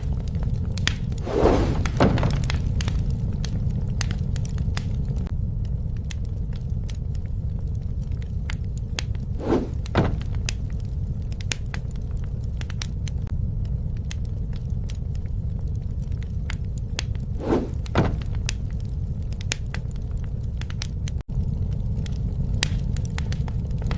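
Campfire burning: a steady low rumble of flames with scattered sharp crackles and pops of burning wood. A louder pair of sounds comes about every eight seconds.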